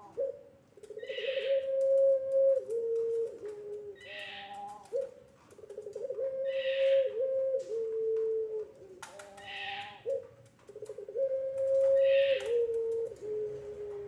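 Puter pelung dove cooing: three long, drawn-out coo phrases about five seconds apart. Each phrase holds a steady note and then steps down twice to lower held notes.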